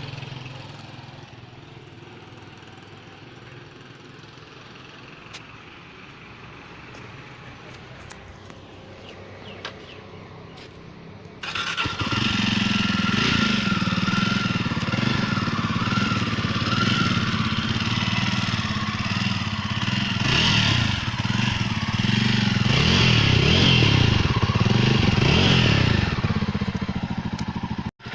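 Jawa Perak motorcycle's single-cylinder engine starting about eleven seconds in, then running with a steady low exhaust note. Near the end the revs rise and fall in several throttle blips. Before the start there is only low background noise with a few faint clicks.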